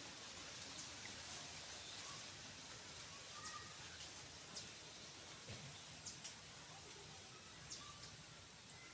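Faint outdoor ambience: a steady high-pitched insect drone, with a few short, faint bird chirps and light ticks.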